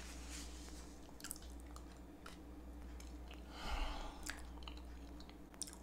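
Soft chewing of a bite of creamy cheesecake, with small wet mouth clicks and a short breathy noise about two-thirds of the way in.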